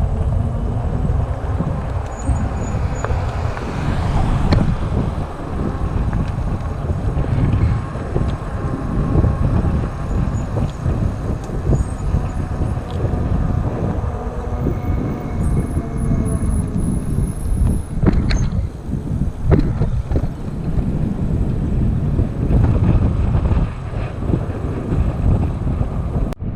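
Steady, rumbling noise from riding an electric bike: wind on the microphone and tyre noise on the road.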